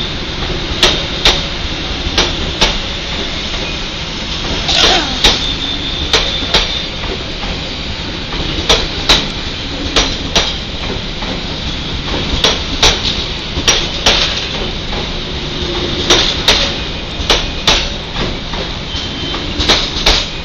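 Passenger coaches of a departing train rolling past, their wheels clicking over a rail joint in pairs, one bogie after another, over a steady rumble.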